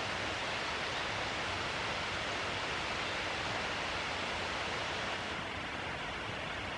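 Waterfall pouring: a steady rushing hiss of falling water, turning a little softer and duller about five seconds in.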